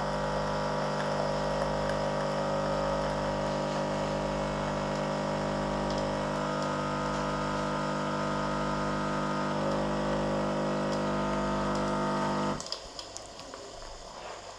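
Capsule coffee machine pumping warm milk from a milk capsule into the cup: a steady hum with a low pulsing of about two beats a second, which stops abruptly about twelve and a half seconds in.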